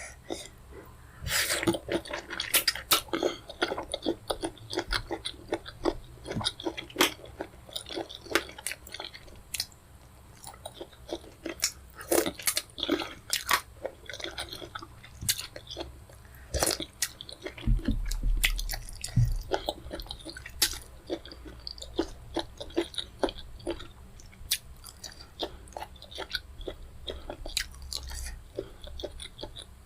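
Close-miked eating of pepper soup with fufu: irregular wet chewing, biting and lip-smacking clicks. There is a brief low thump about two-thirds of the way through.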